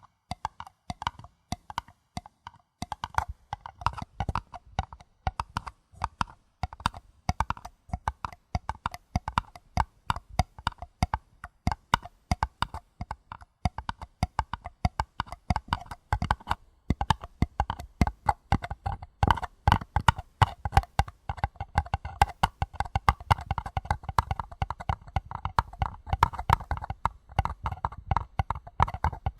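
Paper cups being tapped rapidly: a quick, uneven patter of light taps with soft low thumps beneath, growing louder about two-thirds of the way through.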